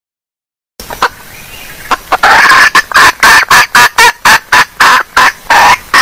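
Junglefowl hen calling. It starts about a second in, softly at first, then breaks into a fast run of loud, evenly repeated clucks, about three to four a second.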